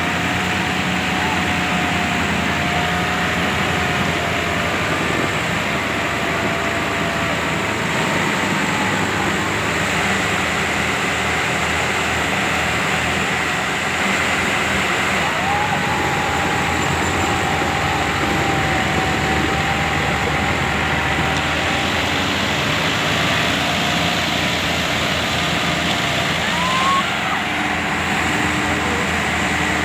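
Tractor engine running steadily and loudly without let-up, with a faint wavering whistle-like tone coming and going over it.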